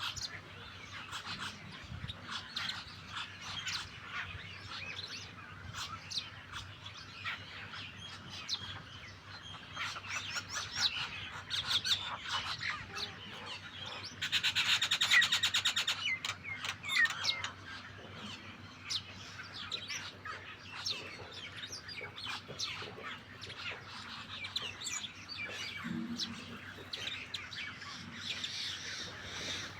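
Starlings and mynas chattering with many short chirps, whistles and squawks. About halfway through there is a louder harsh, rapid rattle lasting around two seconds.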